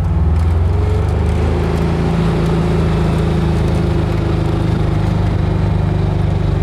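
VW Beetle's air-cooled flat-four engine running under way, its pitch rising a little early on and then holding steady as the car cruises.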